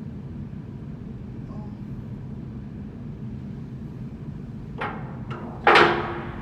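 Metal knocks during a blower-wheel bearing job: two light knocks, then a loud ringing metal strike near the end, over a steady low hum.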